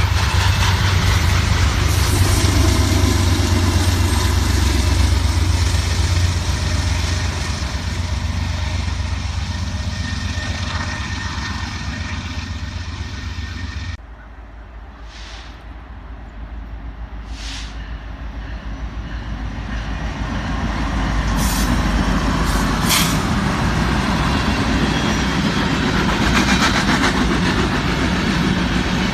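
Freight train rolling past at track side: a loud, steady rumble of wheels on rail with a low engine hum. About halfway through it cuts off suddenly, then builds again as another train draws near.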